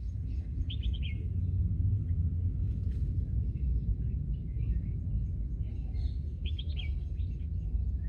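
Birds chirping in short, quick runs of three or four notes, about a second in and again near the end, with fainter chirps between, over a steady low rumble.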